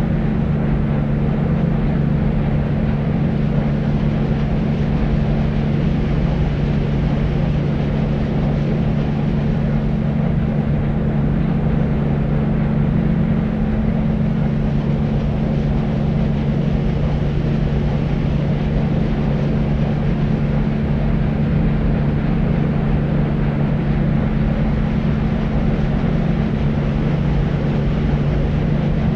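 Deep white noise for sleep: a steady, unbroken rushing noise weighted toward the low end, mostly deep rumble with little treble.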